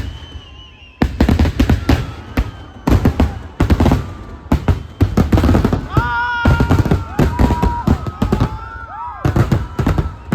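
Fireworks going off in rapid bursts of bangs and crackles from about a second in. From about six seconds in, whistling tones rise and fall among the bangs.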